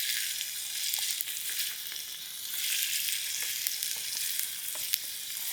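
Potato, carrot and bean pieces frying in hot oil in a pan: a steady sizzle dotted with small crackling pops.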